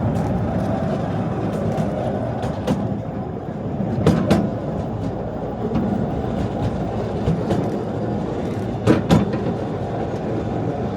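Artouste narrow-gauge tourist train running, a steady rumble with wheels clacking over rail joints in quick pairs, twice.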